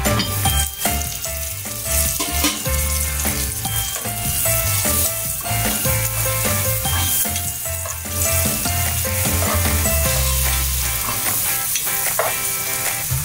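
Sliced garlic and onion sizzling as they fry in hot oil in a pan, stirred now and then with a spatula, over background music with held notes and a bass line.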